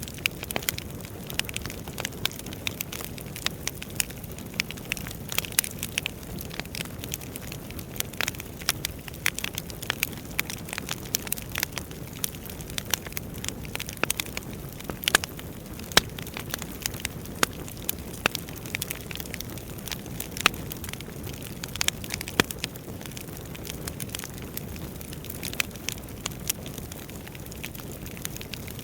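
Wood fire burning in a fireplace, crackling and popping: a steady low rushing of the flames with many sharp pops and snaps, busiest through the middle and thinning toward the end.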